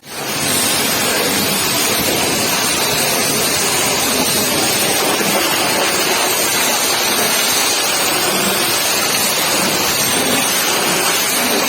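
High-pressure washer spray hissing steadily as the jet blasts mud off a truck.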